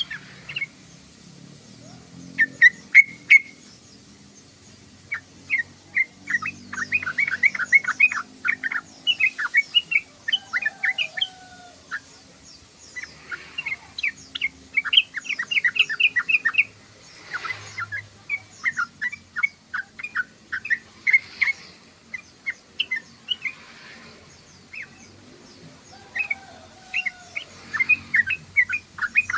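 Yellow-vented bulbul (trucukan) chattering song: bursts of quick, short chirping notes, several to a run, repeated every second or two with brief gaps.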